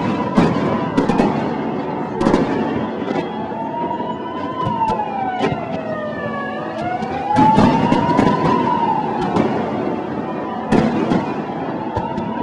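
Fireworks exploding in a string of sharp bangs and crackles over a continuous rumble, while a siren wails slowly down and up in pitch through the middle.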